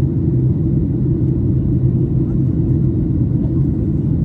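Cabin noise of a Boeing 737 MAX 8 in flight: a steady low drone of the engines and airflow.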